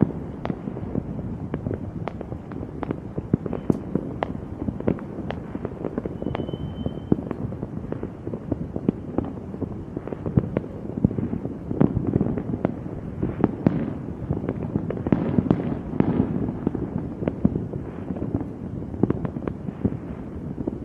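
Fireworks going off in rapid succession, many sharp bangs and crackles overlapping without pause, with a brief high whistle about six seconds in.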